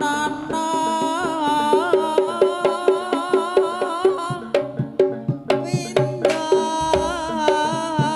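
Live Javanese folk-dance music: a reed horn plays a wavering, ornamented melody over repeated pitched notes and hand-drum strokes, with the drum strokes coming sharper and more regular from about halfway in.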